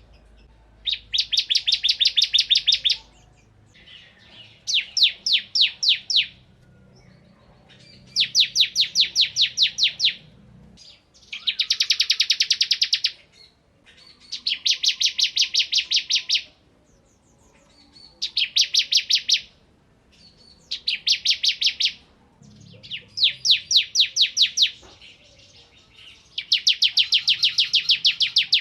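Bar-winged prinia (ciblek kristal) singing its rapid 'bren' trill: about nine high-pitched bursts, each a second or two of fast, evenly repeated notes, separated by short pauses.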